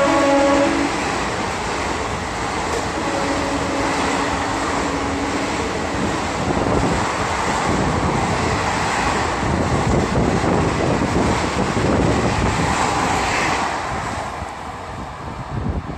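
Indian Railways passenger train (the Kanchanjunga Special) passing close along the platform: a steady rush of wheels and coaches on the rails. The horn's falling chord dies away in the first second, and the rush fades near the end as the last coaches go by.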